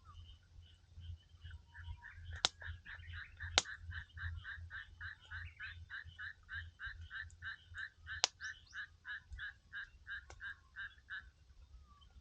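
A frog calling by the pond, a steady run of croaks at about three a second that stops about a second before the end. Three sharp pops from the wood fire, about two and a half, three and a half and eight seconds in, are the loudest sounds.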